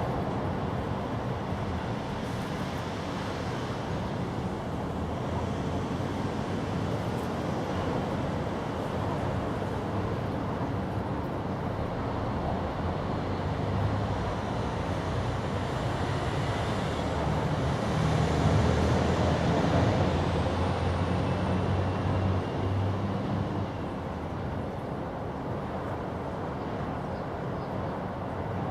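Steady low rumbling noise with a faint hum, swelling a little in the middle.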